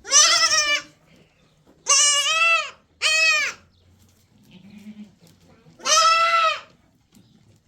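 A sheep bleating four times in high-pitched calls, three close together and a fourth a few seconds later.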